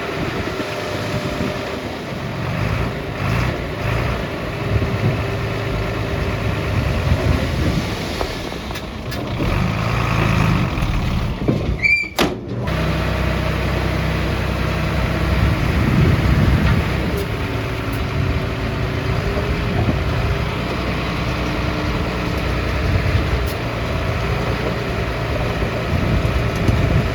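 Diesel engines of earthmoving machines (dump trucks and a bulldozer) running at a work site, their pitch shifting as they work. A brief high squeak comes near the middle.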